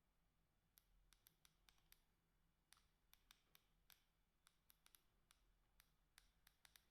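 Faint clicks of a Sagem SG322i mobile phone's keypad buttons being pressed: about twenty short presses in irregular clusters, beginning about a second in.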